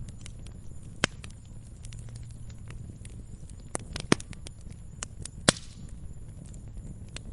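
Fire crackling in a fireplace: irregular sharp pops and snaps, the loudest three about a second, four seconds and five and a half seconds in, over a low steady rumble.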